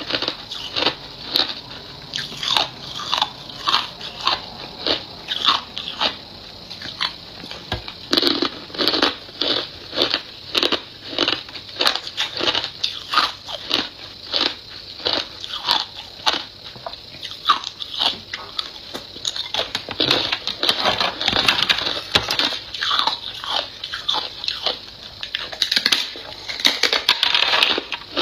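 Ice being bitten and crunched between the teeth: a steady run of sharp crunches about two a second, growing denser and more continuous about two-thirds of the way through as the pieces are chewed up.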